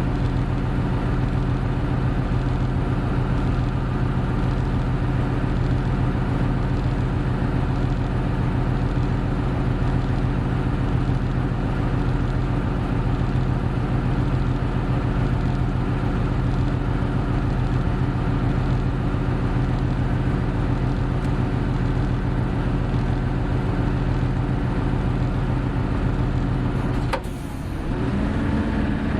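Hino Blue Ribbon City Hybrid route bus (BJG-HU8JLFP) running under way, its diesel engine holding a steady note. Near the end a sharp click comes with a brief drop in engine sound, and then the pitch starts climbing again.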